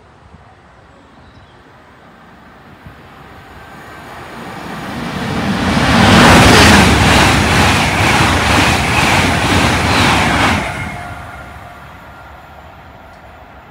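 A train passing through the station at speed without stopping: a rush of noise builds as it approaches, then several seconds of loud wheel-on-rail noise with a regular clatter of the wheels, cutting off suddenly as the last vehicle passes and leaving a fading rumble.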